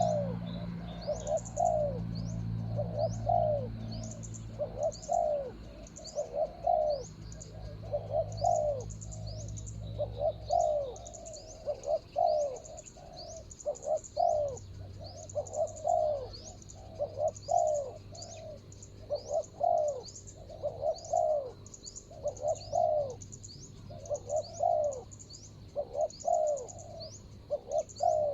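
Spotted doves cooing, short low phrases repeated about once a second without a break, with a small bird's quick high chirps repeating above them. A low steady hum runs under the first ten seconds or so, then stops.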